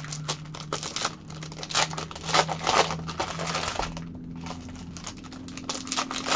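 Foil trading-card pack wrappers crinkling and tearing as card packs are opened by hand, in irregular rustles with a brief lull about four seconds in.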